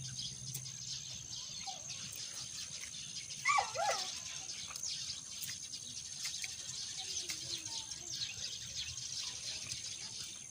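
A dog gives two quick barks or yips about three and a half seconds in, over a steady high-pitched buzz of insects.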